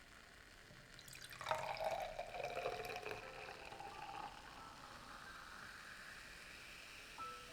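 Water running from a tap, starting about a second in, loudest and splashiest for the first couple of seconds, then settling into a steadier flow.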